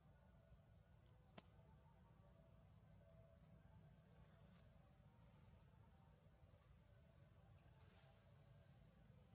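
Faint, steady high-pitched chorus of insects, with one sharp click about a second and a half in.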